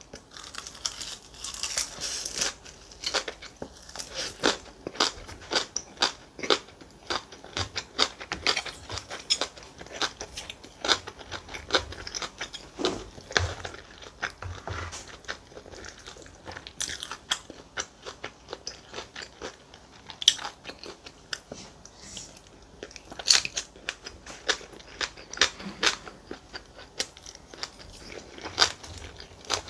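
Close-miked eating: a bite into rice wrapped in seasoned laver gives a burst of crisp crunching about a second in, then steady chewing with many short wet clicks and crunches.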